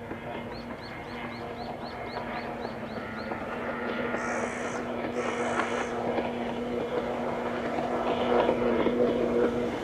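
A passing vehicle's steady motor hum, growing louder and then cutting off just before the end, with a quick run of light high ticks early on and two short hisses about four and five seconds in.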